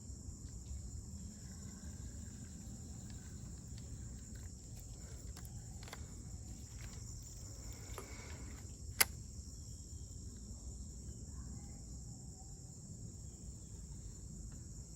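Insects outdoors making a steady, high drone, with a low murmur beneath. A few faint clicks, then one sharp click about nine seconds in.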